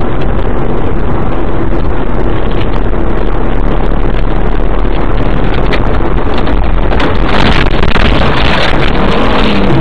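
Loud, steady rumble of a moving car heard from inside through a dashcam microphone, with road and wind noise. The noise grows louder and harsher about seven seconds in.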